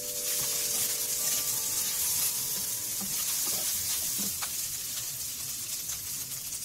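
Fried rice sizzling in a frying pan while a wooden spatula stirs and turns it, with a few short scrapes against the pan.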